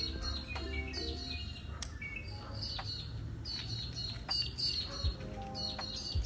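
Birds chirping over and over in short bursts, over soft background music. A few soft low thumps near the end.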